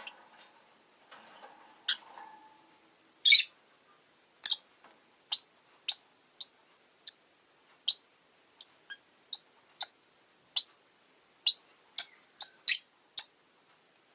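Rosy-faced lovebirds giving short, sharp, high chirps, about twenty single calls at irregular intervals. The loudest come about three seconds in and near the end.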